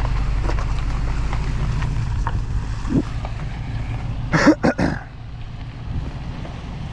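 Wind buffeting the microphone of a camera on a mountain bike rider as the bike runs down a trail, a steady low rumble with scattered small rattles. About four and a half seconds in comes a quick cluster of three sharp clatters.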